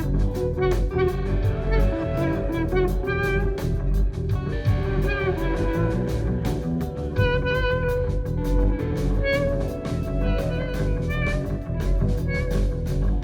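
Live rock band playing an instrumental passage: sustained, wavering guitar lead notes over bass and a steady drum beat.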